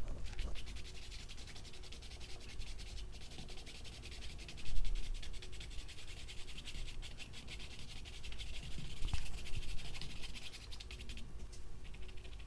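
A paintbrush scrubbing and dabbing acrylic paint onto the painting surface in quick, dry, rasping strokes, with a dull low bump about five seconds in.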